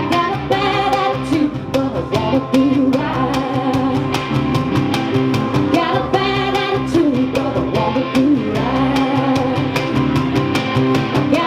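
A live band playing and singing a song: sung vocals over guitar, with a steady beat of drum hits.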